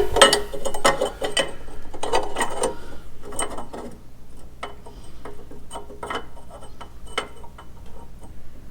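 Metal parts and hand tools being handled and fitted together: irregular clicks and clinks, busy for the first few seconds, then sparser single ticks.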